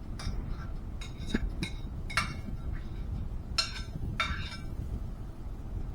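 A kitchen utensil clinking and scraping against a bowl in a series of about seven short knocks, as leftover potatoes are knocked out of the bowl into a pan.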